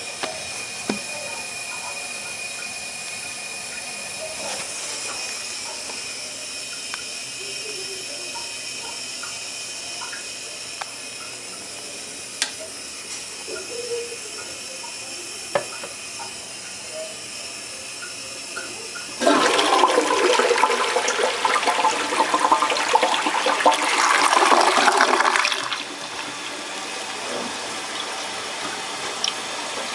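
Universal-Rundle Atlas toilet: a steady hiss of running water with a faint whistle that fades, then past the middle a loud rush of flushing water for about six seconds that stops abruptly, leaving the hiss.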